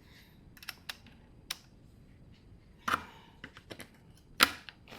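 Scattered light metal clicks and a few short scrapes of a small round file working the teeth of a small cordless electric chainsaw chain, with two sharper hits about three seconds in and near the end.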